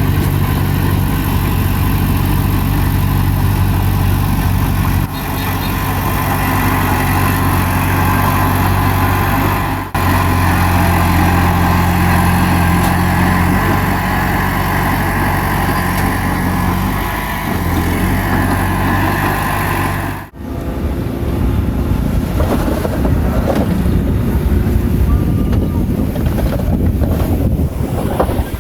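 Bulldozer diesel engine running steadily under load, heard in several stretches joined by abrupt cuts. In the last third the engine is less distinct under a noisier rumble of wind on the microphone.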